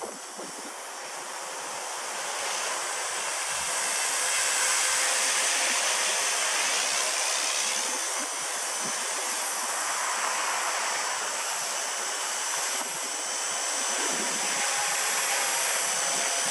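Walkera V120D02 micro RC helicopter in flight: a steady high-pitched electric motor and rotor whine, louder from about four seconds in, with wind rushing over the microphone.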